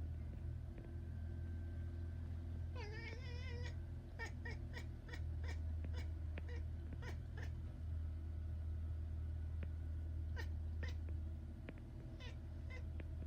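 Domestic cat chattering at a seagull: a quivering trill about three seconds in, then runs of short clicky "ek-ek-ek" calls, about three a second, with a few more near the end. A steady low hum runs underneath.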